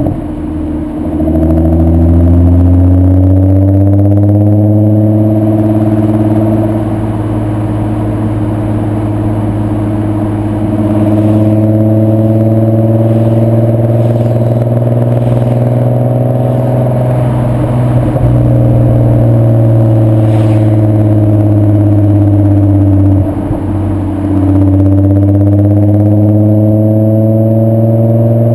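VW 2.8 VR6 24V engine (AQP) through a Milltek non-resonated exhaust, accelerating through the gears: the pitch climbs, holds, and climbs again, with a short drop for a gear change about a second in and another a few seconds before the end.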